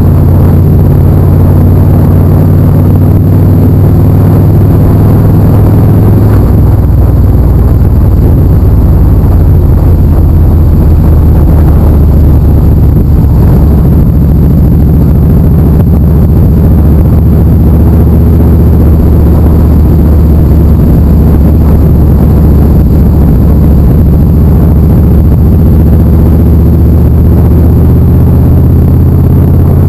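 Motorcycle engine running at road speed, loud and close, with a low pitch that drops and shifts a few times as the throttle and speed change.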